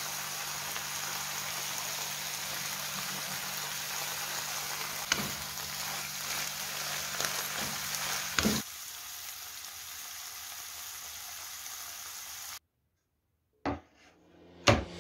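Oyster mushrooms in sour cream sizzling steadily in a frying pan, with a couple of sharp knocks against the pan. The sizzle drops quieter about two-thirds of the way through and then cuts off, and two short knocks follow near the end.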